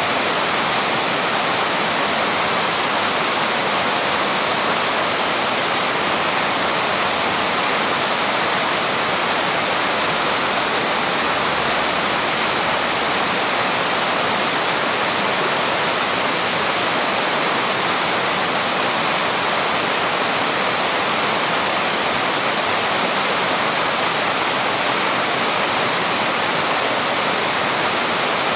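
Small waterfall rushing steadily over rocks, a constant even roar of falling water.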